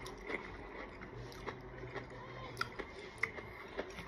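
Faint chewing of sweet and sour chicken and rice, with scattered small mouth clicks and a low hum in the middle.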